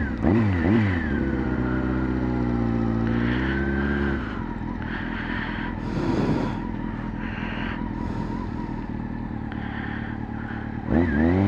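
Motorcycle engine running on the move: its pitch swings up and down with the throttle at the start, holds steady, drops as the rider eases off about four seconds in, then rises again near the end as he accelerates.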